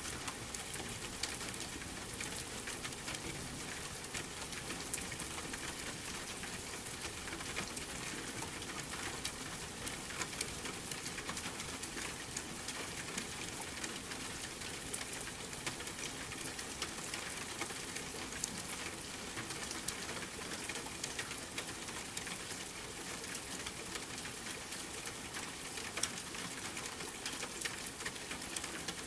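Steady rain hissing, with scattered small pops and crackles from a wood fire. A few sharper pops stand out now and then.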